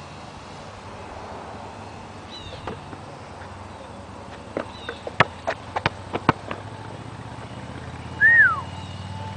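A single bird chirp sliding downward in pitch near the end, after a run of sharp clicks or taps around the middle, over a faint low steady hum.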